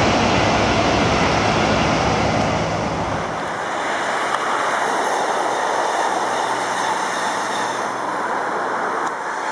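Electric trains passing on the line. First a departing double-deck train runs with a steady hum. After a cut about three seconds in, an NS Sprinter Lighttrain (SLT) electric multiple unit passes close by with a steady rolling rush.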